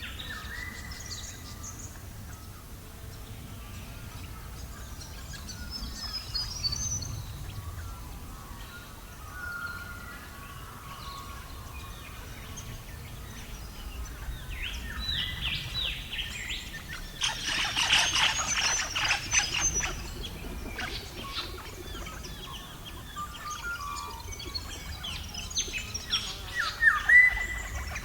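Small birds chirping in short calls over a low steady rumble, with a dense flurry of sharp clicks or crackles about two-thirds of the way through.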